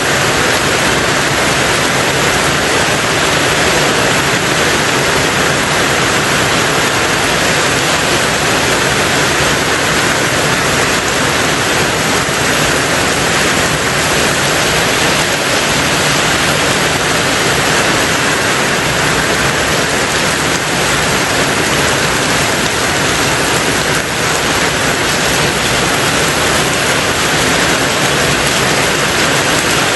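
Rain on a tin roof: a loud, steady, dense hiss with no single drops standing out.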